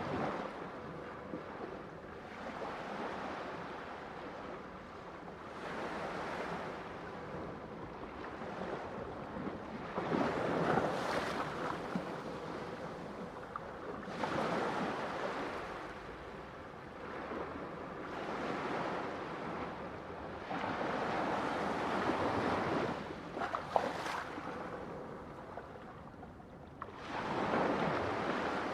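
Ocean waves breaking on a shore, each wave rising to a rush of surf every few seconds and then fading.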